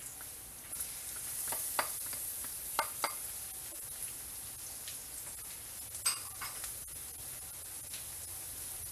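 Chopped onion and minced garlic sizzling in hot cooking oil in a metal wok: a steady high hiss, with a few sharp clicks scattered through it.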